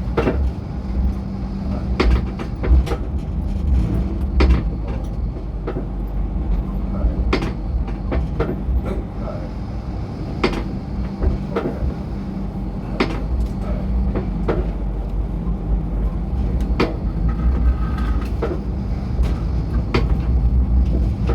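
MTR Light Rail car running along the track, heard from inside the car: a steady low rumble and hum, with irregular sharp clicks and knocks from the wheels on the rails.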